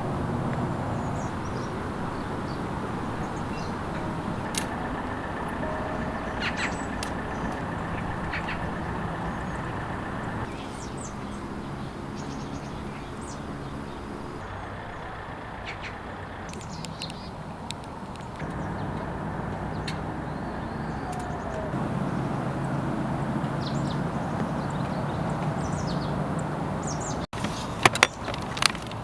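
A steady low rumble and hum, like a vehicle running or road noise, with scattered short bird chirps. A quick run of sharp clicks and knocks comes near the end.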